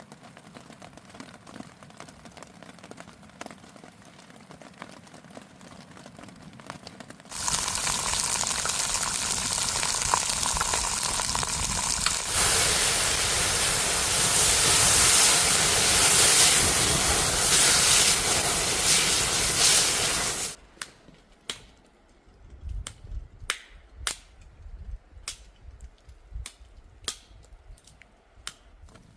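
Hot oil sizzling loudly as chicken deep-fries, cutting off sharply about two-thirds of the way through. It is preceded by a soft crackling hiss and followed by a series of sharp, irregular clicks and knocks.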